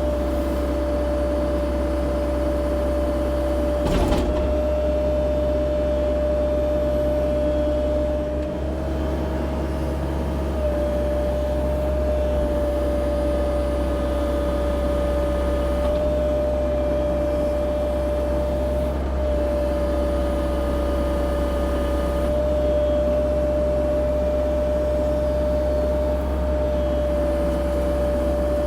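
CAT 304 E2 mini excavator's diesel engine and hydraulics running steadily at work, with a steady whine over a low rumble. A single knock comes about four seconds in.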